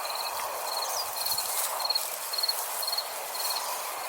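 Short, high pulsed chirps repeating evenly about twice a second over a steady background hiss.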